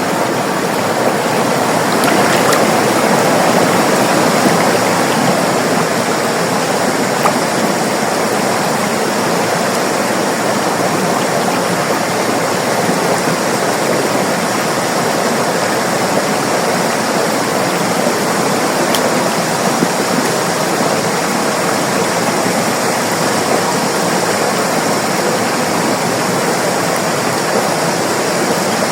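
River water flowing over rocks, a steady rushing and babbling with small splashes, slightly louder for a few seconds near the start.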